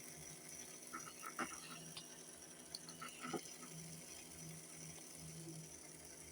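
Faint steady hum with a few light clicks, the loudest about a second and a half in and again past three seconds.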